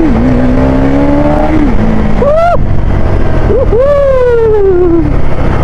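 KTM Duke 390's 399 cc single-cylinder engine accelerating under way, its pitch climbing and dropping back at a gear change twice in the first two seconds. It then revs sharply a couple of times and falls in pitch slowly as it slows, over a steady rush of wind noise.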